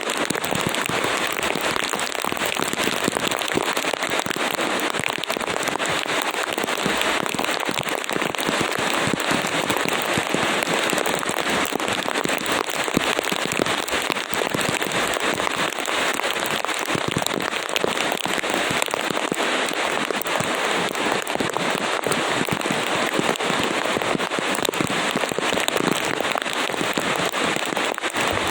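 Heavy rain falling steadily: a dense, even hiss of drops with countless small sharp impacts, unchanging throughout.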